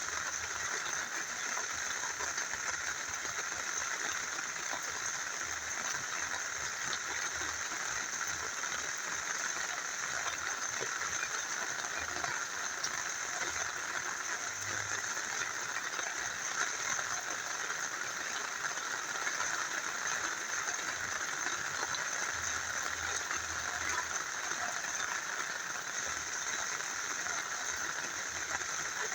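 Steady rain falling together with a small river running: an even, unbroken wash of water noise.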